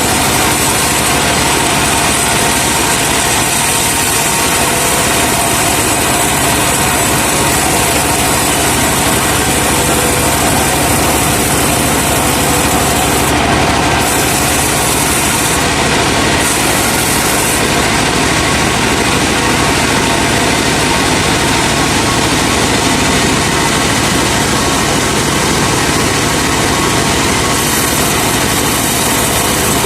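Engine of a truck-mounted sawmill running steadily and loudly.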